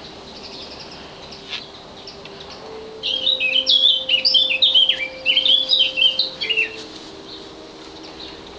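A songbird singing: a loud, rapid, jumbled burst of short high notes starting about three seconds in and lasting about four seconds, with a few faint chirps before it.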